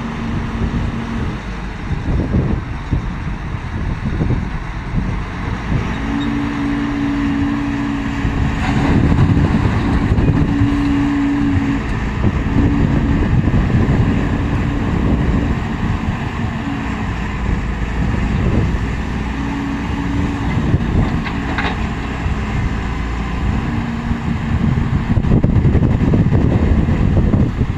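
Dump truck engine running under work, a steady heavy rumble whose tone steps up and down repeatedly as it revs and eases off, with a couple of brief knocks.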